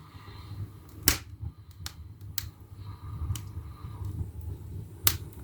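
Firewood crackling and popping in a freshly lit fireplace: a few sharp, irregular pops, the loudest about a second in and another near the end.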